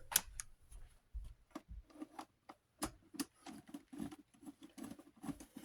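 Scattered light clicks and taps, several a second at irregular spacing, from a screwdriver and loose socket being worked against the small metal desk fan's screws and parts.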